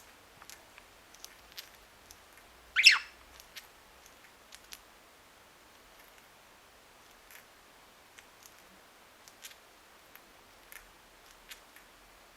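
Budgerigar grinding its beak: faint, irregular scratchy clicks, the sign of a content, relaxed bird, often about to fall asleep. About three seconds in comes one short, loud chirp falling in pitch.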